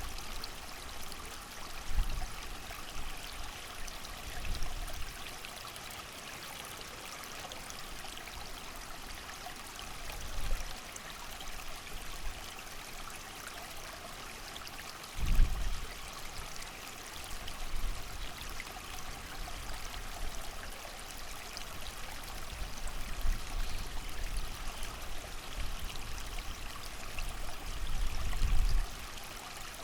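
A creek running steadily in the rain, with gusts of wind swelling in as low rumbles every few seconds, the strongest about halfway through.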